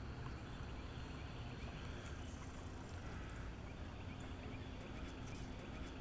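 Steady outdoor background noise: a low rumble with a light hiss and a faint steady hum, with no distinct events.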